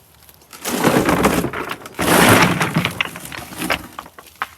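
A load of large landscaping rocks being dumped onto the ground, clattering and crashing in two long pours about a second in and two seconds in, with a few stones knocking as they settle.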